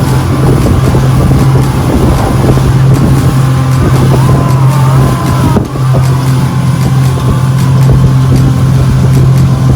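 Motorboat engine running steadily with a constant low hum under loud rushing noise, which briefly dips about halfway through.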